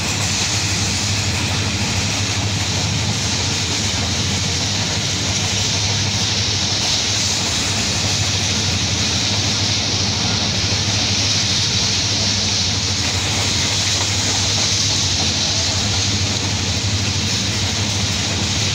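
Steady rush of a passenger train running at speed, heard from an open coach doorway: wheels on the rails with a constant hiss and a low drone.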